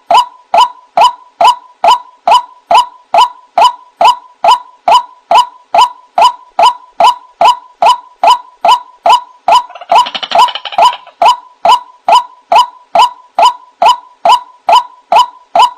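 White-breasted waterhen (ruak-ruak) calling: a short "kwak" note repeated steadily about two and a half times a second. A harsher, noisier layer joins briefly about ten seconds in.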